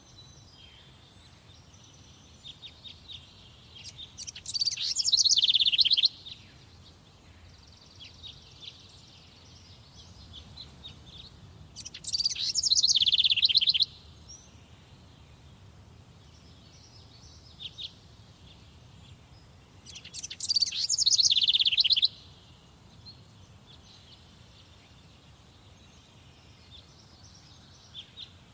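A songbird singing the same loud, high phrase of about two seconds three times, roughly every eight seconds, with fainter chirps from other birds in between.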